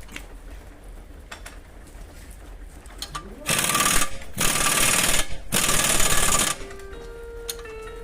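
Pneumatic impact wrench run in three bursts of about a second each, tightening the suspension bolts on a car's front wheel hub. A few steady tones follow near the end.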